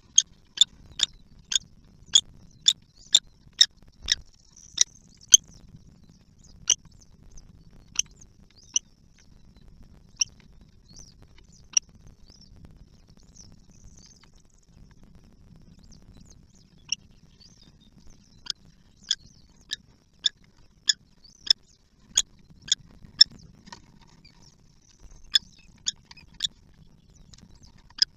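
Kestrel chicks giving short, high-pitched squeaks in quick runs of about two a second, with a sparser lull in the middle.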